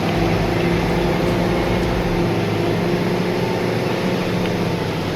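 Heavy truck engine running steadily, a constant low hum with no change in pitch.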